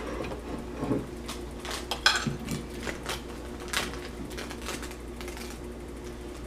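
Fork clinking and scraping against a plate of spaghetti: a scattering of short clicks, the loudest about two seconds in, over a steady low hum.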